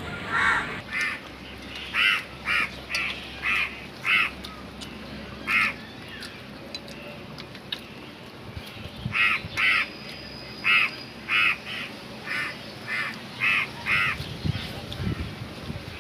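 A bird giving a long series of short, harsh calls, about two a second, in two bouts with a pause of a few seconds between them.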